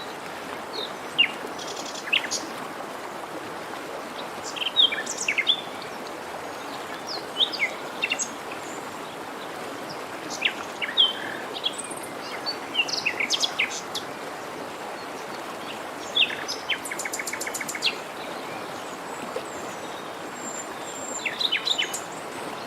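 Songbirds chirping and singing in short, scattered phrases, with a rapid trill twice, over the steady rush of a forest stream.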